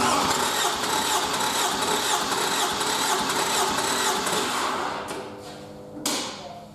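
Toyota 2AR-FE 2.5-litre four-cylinder engine being spun by its starter, as for a compression test, making a rapid, even mechanical beat. It starts abruptly, dies away after about four and a half seconds, and a short sharp noise follows about a second later.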